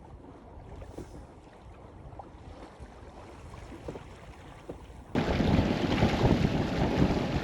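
Wind and water noise aboard a sailing boat, with small knocks. About five seconds in, a much louder rush of wind buffeting the microphone starts abruptly.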